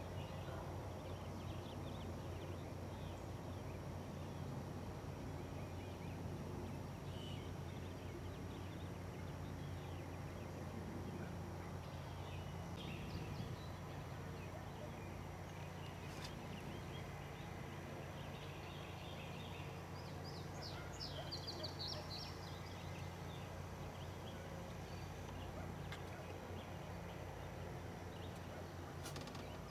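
Quiet field ambience with a steady low hum, and scattered bird calls: a quick run of high chirps about two-thirds of the way through and another near the end.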